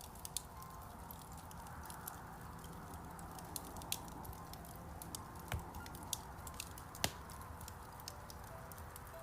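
Wood fire in a fireplace crackling, with frequent small sharp pops over a soft hiss, and two louder snaps about five and a half and seven seconds in.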